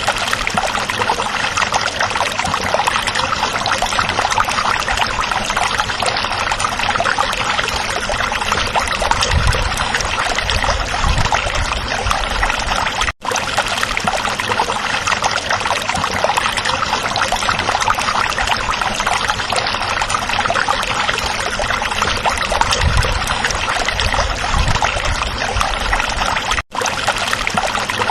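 Small stream babbling and trickling over rocks, a steady rushing with occasional deeper gurgles. The sound cuts out for an instant twice, about halfway through and near the end.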